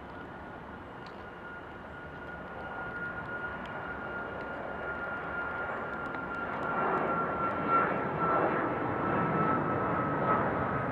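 Jet airliner engines running with a steady high whine that sinks slowly in pitch, growing louder as the aircraft comes closer. A rushing rumble builds under the whine in the second half.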